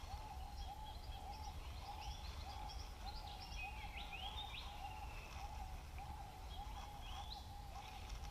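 Birds calling in a dawn chorus: a low call repeated about twice a second, with higher rising whistles and chirps over it and a low steady rumble underneath.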